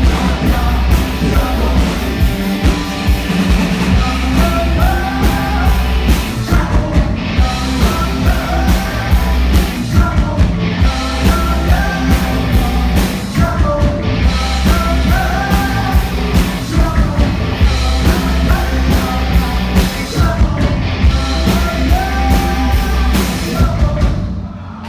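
Live rock band playing, with singing, at full volume; the music drops away just before the end.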